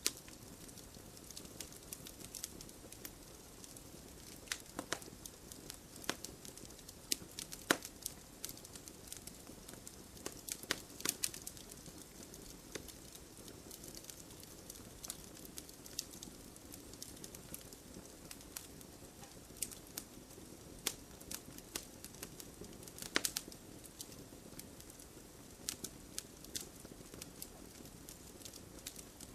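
Campfire crackling: irregular sharp pops and snaps, a few of them louder, over a soft steady hiss of the flames.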